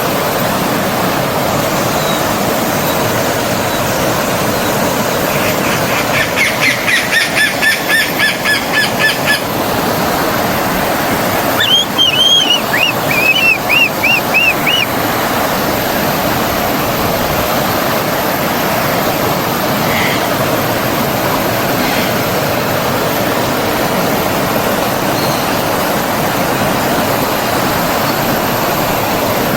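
Stream water flowing steadily, with birds calling over it: a quick repeated call about six seconds in, then a run of chirping notes about twelve seconds in, and a couple of faint chirps later.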